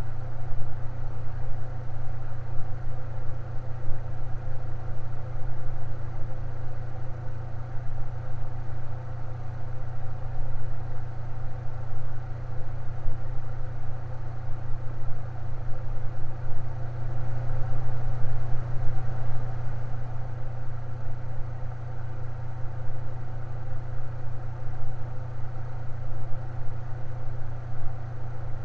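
Electric fan running steadily: an even low hum with fainter whirring tones above it, unchanging throughout.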